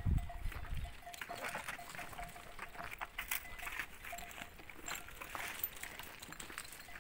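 A herd of goats and sheep moving about, with scattered small clinks and knocks, such as their bells make, over a faint steady background. A brief low rumble sounds right at the start.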